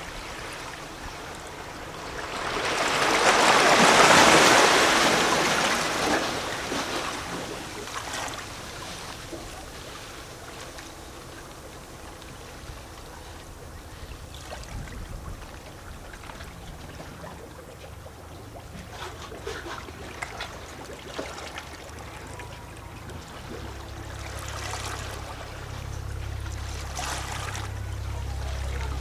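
Small sea waves lapping and sloshing against rocks, with a larger wave washing in about three seconds in, the loudest moment, and scattered small splashes after. A low steady rumble comes in during the last several seconds.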